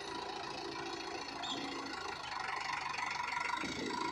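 Sonalika DI 750 tractor's diesel engine running steadily.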